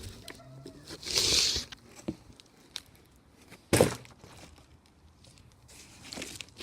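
A short hissing rustle about a second in, then one sharp, hard knock a little before the middle, with faint small handling ticks around them.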